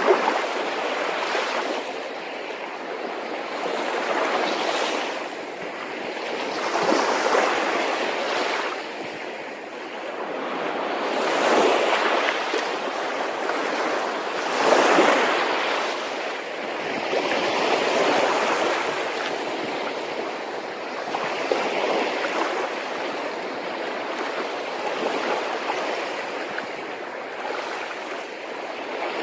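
Sea waves breaking and washing on a beach, the surf swelling and falling every few seconds.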